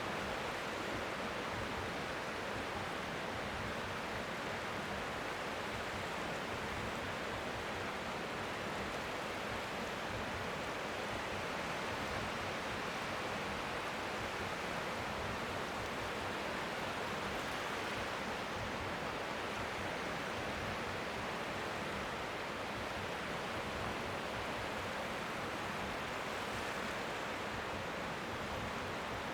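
Strong seaside wind making a steady, even hiss, with gentle waves lapping faintly on the shore beneath it.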